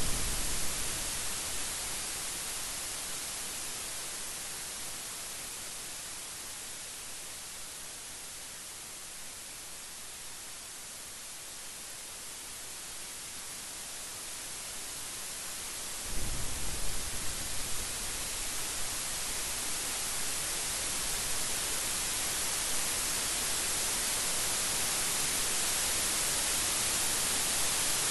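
Steady rain hiss with thunder: a low rumble dies away in the first second, and a new thunder clap breaks in suddenly about sixteen seconds in, rumbling for a couple of seconds. The rain grows louder toward the end.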